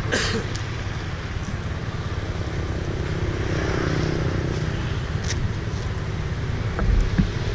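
Motorcycle engine idling steadily as a low hum, with a brief rustle at the start and a few low thumps near the end.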